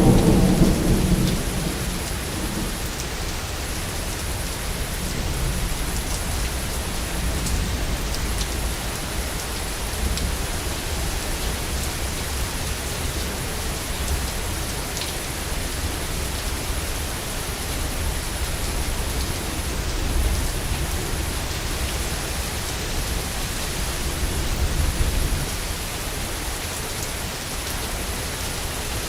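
Steady heavy rain with a constant low rumble of thunder. A loud thunderclap hits right at the start and fades over a second or two, and another thunder roll swells near the end.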